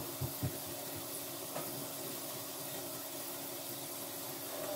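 Kitchen faucet running steadily into the sink and down the newly fitted drain, a steady hiss, with a couple of faint low thumps in the first half second.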